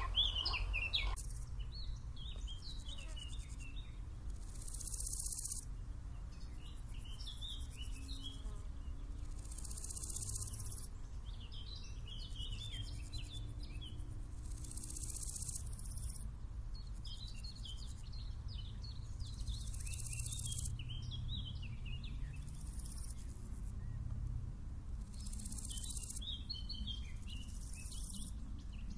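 Songbirds chirping in short repeated phrases, alternating about every five seconds with roughly one-second bursts of high, hissy insect stridulation, over a steady low rumble.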